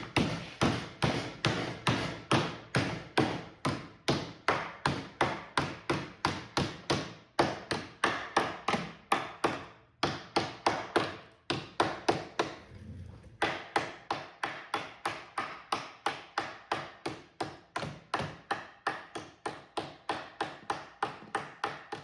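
Hammer striking sheet metal clamped between wooden boards, bending a curved edge over the board: steady blows about three a second, with a couple of short pauses midway.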